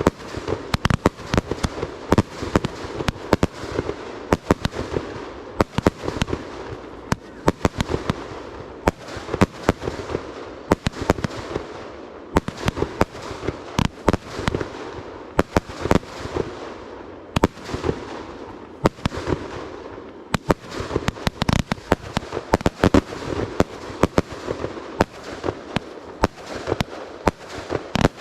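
Fireworks display going off nonstop: sharp bangs several times a second over a continuous din of crackle between them.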